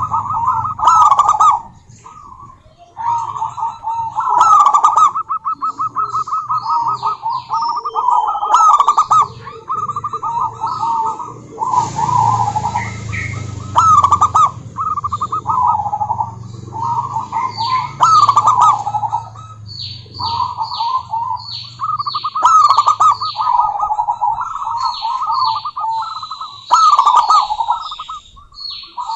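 Zebra doves cooing: rapid, rolling trilled coos repeated almost without pause and overlapping one another, with thin high chirps of smaller birds, more of them in the second half.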